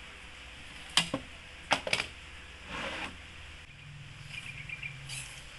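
Three sharp knocks or clicks, a short scraping sound, then a faint run of rapid light ticks, like small tools and pieces of wood being handled on a workbench.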